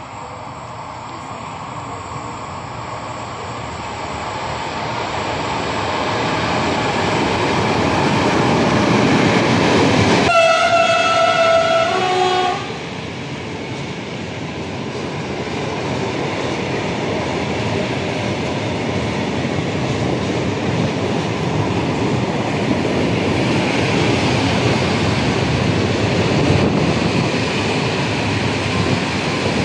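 Freight train hauled by a Siemens Smartron electric locomotive running through a station. The rolling noise builds as it approaches, and the locomotive's horn sounds about ten seconds in, one long note and then a short second note. After that the long line of open freight wagons rolls past steadily.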